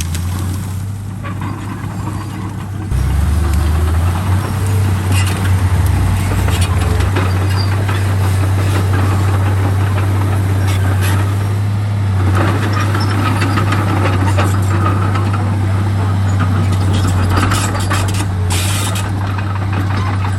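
Komatsu D31P bulldozer's diesel engine running steadily under load, getting louder about three seconds in, with scattered clanks and knocks over it.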